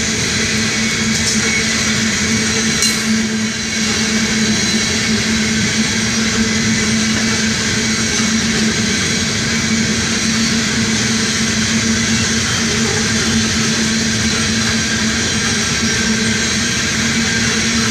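Coal train's hopper cars rolling past, a steady rush of steel wheels on the rails with a constant low hum running through it.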